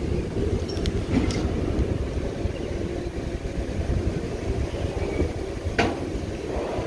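Container freight train wagons rolling past on the rails: a steady low rumble of steel wheels on track, with a few sharp clanks about a second in and a louder one near six seconds.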